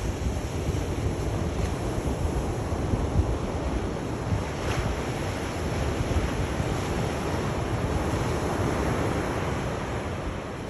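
Sea surf: waves washing in as a steady rush, swelling slightly about eight seconds in.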